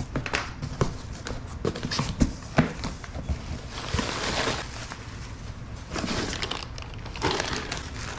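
Packaging rustling, with irregular knocks and clicks of parts being handled as a box from a turbo kit is unpacked.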